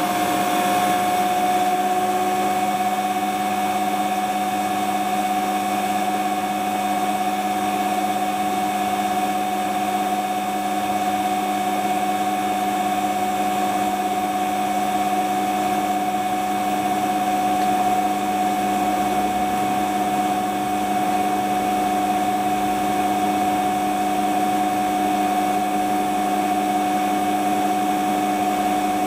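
Hotpoint Ultima WT960 washing machine spinning its drum at a steady speed, driven by a new replacement belt: an even motor whine with several unchanging tones.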